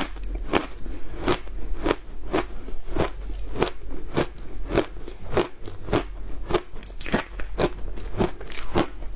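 Frozen matcha ice being bitten and chewed, a steady run of crisp crunches about two a second.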